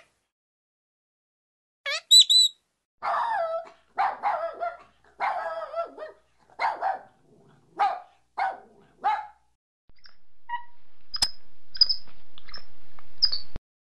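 An animal giving a run of about eight short, rough barks, followed by a few short high chirps over a rising hiss.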